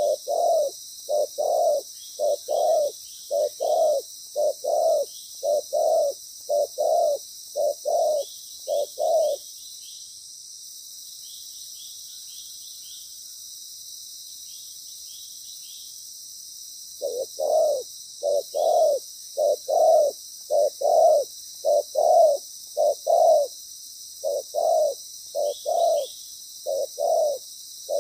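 Spotted dove cooing: a long run of short, loud coos in quick succession, often in pairs. They stop about nine seconds in and start again about seven seconds later.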